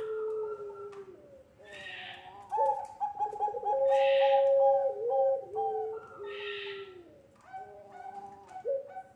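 Puter pelung dove cooing in long, drawn-out phrases. Each coo is held at a steady pitch and then steps down lower, and the phrases repeat several times. A hazier, higher sound recurs about every two seconds alongside the coos.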